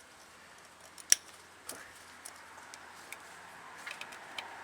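Small metallic clicks and ticks as a snap ring is worked back into its groove in a truck's front locking hub, with one sharp click about a second in.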